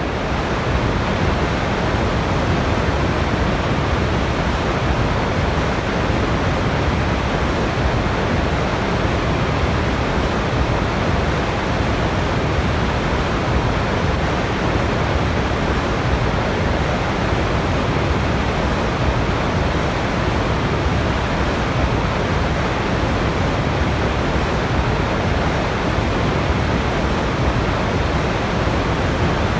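Waterfall: a steady, even rush of falling water with no changes in level.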